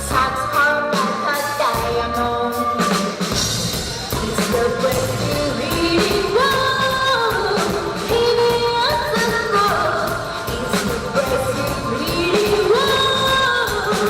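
Live band playing a song, with a woman singing a melody of held notes that step up and down over it. The deepest bass drops out about three seconds in.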